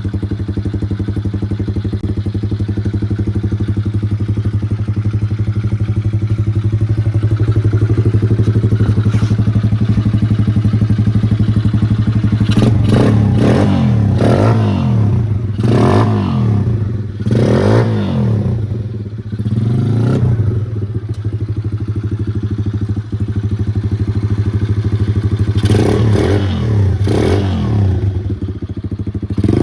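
Exhilarator Pro 110cc junior quad bike engine idling steadily, then revved up and down several times about halfway through and again near the end.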